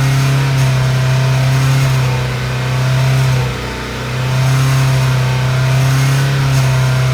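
Ford Shelby GT350's 5.2-litre flat-plane-crank V8 under way, held in its 3800–4200 rpm band with a loud, steady buzzing drone over the engine note. The drone eases briefly about halfway through and then comes back. The buzz appears only above about 215 degrees oil temperature, and the owner, going by the forums, blames the rear cylinder block plate behind the flywheel.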